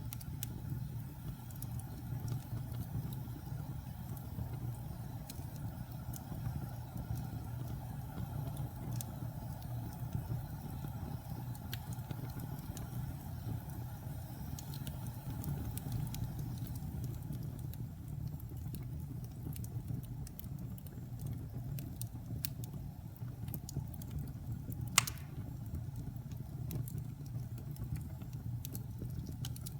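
Wood fire burning in a fireplace: a steady low rumble with scattered small crackles, and one louder sharp pop about 25 seconds in.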